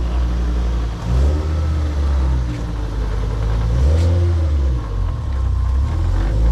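Turbocharged Ford Focus ST's five-cylinder engine running under load, its revs dropping and climbing again a few times as it accelerates.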